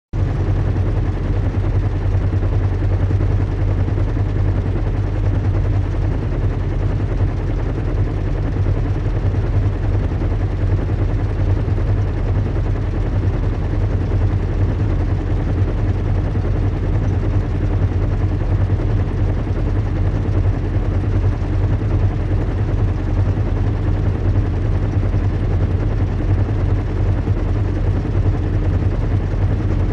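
Recreated zeppelin-in-flight ambience: a steady low rumble and engine hum of a large airship, unchanging and without breaks.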